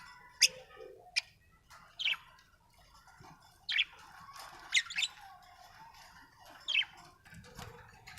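Budgerigar chirping: about seven sharp, short, high-pitched calls at irregular intervals over a softer, continuous chattering warble.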